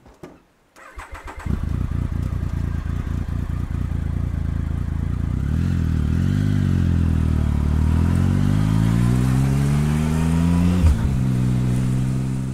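Triumph Tiger 1050's three-cylinder engine under way, coming in about a second in. Its revs dip and recover around the middle, then climb steadily under acceleration until a short click near the end, after which the pitch drops slightly and holds steady.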